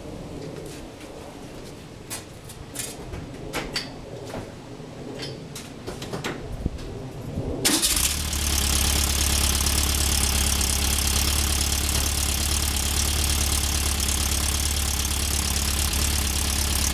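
A few scattered clicks and knocks, then about eight seconds in a 1965 Volkswagen 40 hp air-cooled flat-four starts and settles into a steady idle. It runs through a 4-into-1 header and dual quiet-pack mufflers, with a deep, throaty exhaust note.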